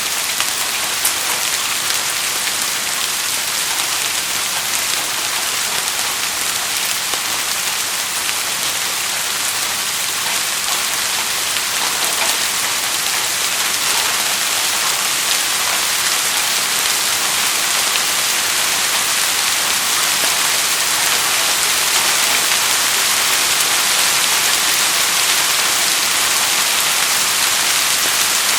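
Steady rainfall: a dense, even hiss of raindrops hitting surfaces, with fine individual drop ticks, growing slightly louder toward the end.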